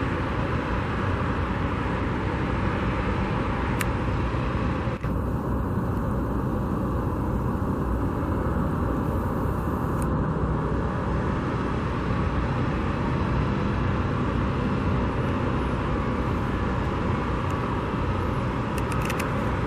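Steady rumble of road traffic, with a brief dip about five seconds in.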